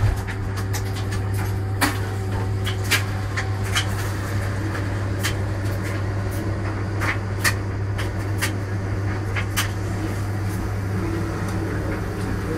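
Noble Boss washing machine running its wash cycle: a steady low hum with irregular clicks and knocks through it.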